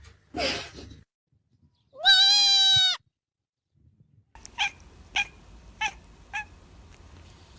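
Cat meowing: a short rough cry, then a loud, drawn-out meow lasting about a second. After a cut, four short high cries follow at an even pace.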